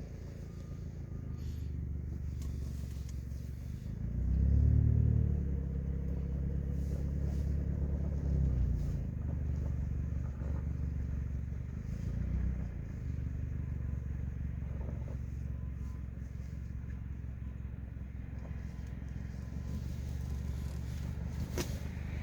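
Car engine and road noise: a steady low hum that swells louder and falls back about four to five seconds in.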